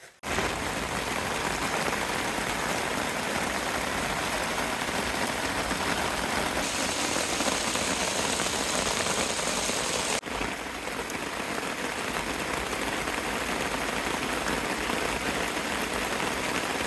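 Steady heavy rain, an even hiss of falling water with no separate drops standing out, breaking off for a moment about ten seconds in.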